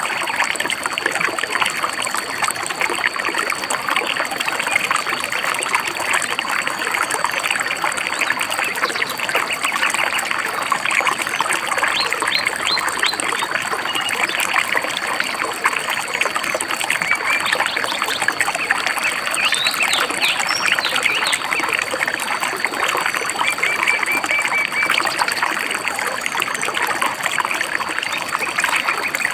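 Shallow river or stream babbling steadily, with small birds chirping briefly over it: a few chirps about twelve seconds in, a cluster around twenty seconds, and a quick run of repeated notes a little later.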